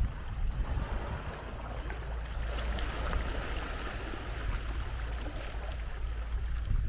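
Wind buffeting the microphone with a low rumble, over the wash of small waves on a sandy beach that swells about three seconds in.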